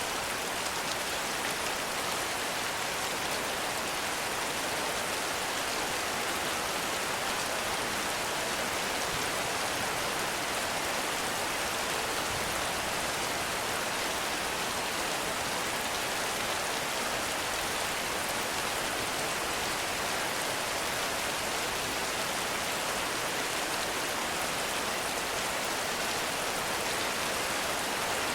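Heavy rain falling steadily, a dense, even hiss of countless drops with no thunder or separate impacts.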